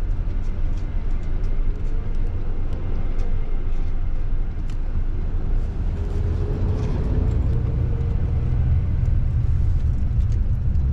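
Car being driven: a steady low rumble of engine and road noise, with a faint tone in the middle that rises and falls.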